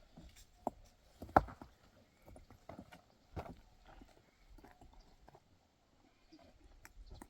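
Irregular hard knocks and clacks, a few spaced seconds apart, the loudest about a second and a half in.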